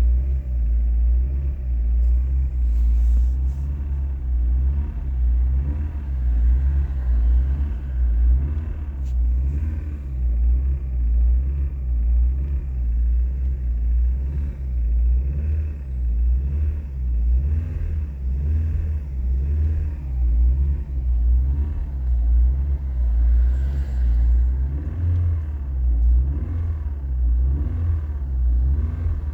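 Car engine running and being revved: a deep rumble that swells and dips over and over.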